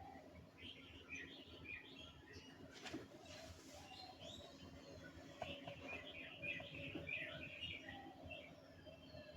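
Birds chirping: many short, overlapping chirps throughout, over a steady low hum.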